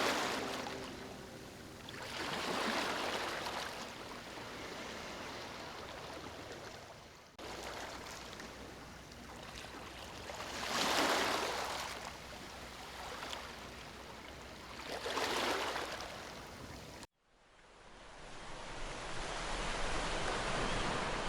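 Sea waves washing onto a shore, each surge swelling and fading every few seconds. About 17 seconds in, the sound cuts off abruptly and gives way to steadier surf that slowly grows louder.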